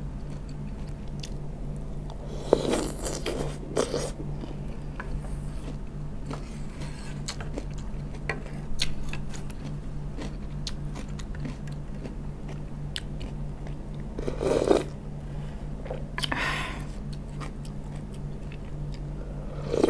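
Close-miked chewing and crunching of pickled vegetables from asinan sayur, many small wet crunches, with a few louder noisy bursts about three seconds in and twice around fifteen seconds. A steady low hum underneath.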